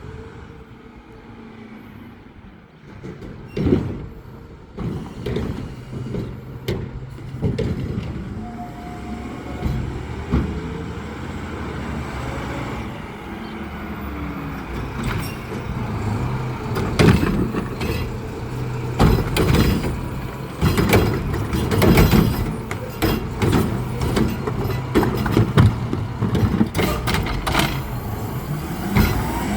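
Garbage truck collecting trash: its engine running steadily under many bangs and clatters as refuse is dumped and handled, the knocks coming thickest and loudest in the second half.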